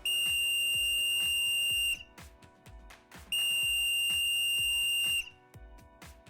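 Two long, loud electronic beeps, one steady high tone each lasting about two seconds, with a gap of about a second and a half between them, over background music.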